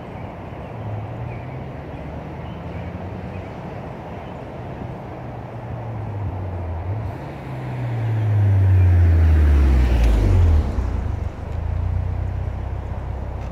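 2016 Ford Mustang EcoBoost's turbocharged 2.3-litre four-cylinder, on the stock turbo and downpipe with a cat-back exhaust and MagnaFlow mufflers, passing close by. Its exhaust note grows louder with the pitch falling, peaks about two-thirds of the way in, then drops off sharply. Steady highway traffic noise runs underneath.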